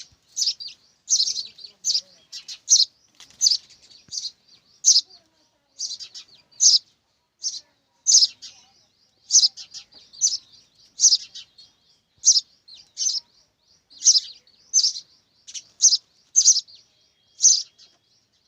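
Young sparrows chirping: short, high-pitched chirps repeated steadily, about one to two a second.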